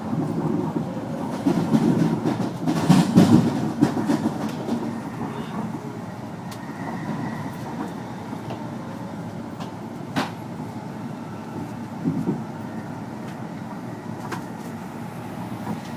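Train running on the rails: a steady low rumble that swells about two to four seconds in, with scattered sharp clacks and knocks from the wheels and track.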